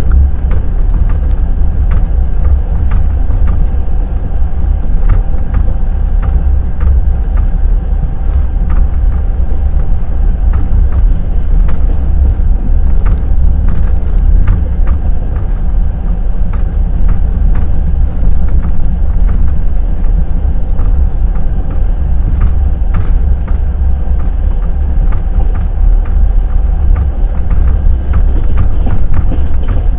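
Passenger train running along the track: a steady low rumble with the clack and knock of the wheels over the rails.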